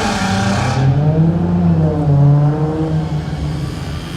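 Loud car exhaust, an engine revving up and down as a car pulls away.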